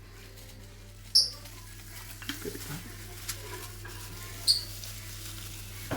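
Baby lovebirds squeaking during hand feeding, with two sharp, high chirps, one about a second in and one near the end, and faint clicks and squeaks between them.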